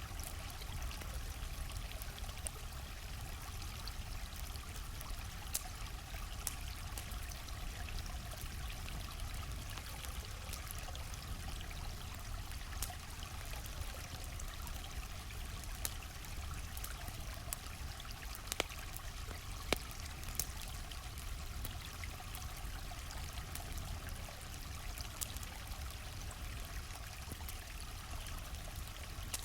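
A gently flowing stream runs in a steady wash, with a campfire crackling over it in sparse, sharp pops; two of the pops, a little past halfway, are louder than the rest.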